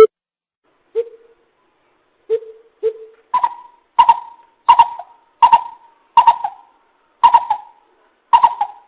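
Greater coucal calling, as played for a lure: a series of hollow hoots, first three slow low ones, then a steady run of about eight higher hoots a little under a second apart.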